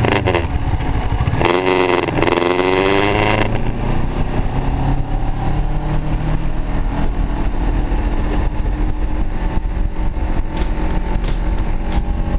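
Kawasaki Ninja 650's parallel-twin engine running while the motorcycle is ridden, recorded from the bike. About two seconds in, the engine note drops and then climbs again as the revs fall and pick back up, then it runs on steadily.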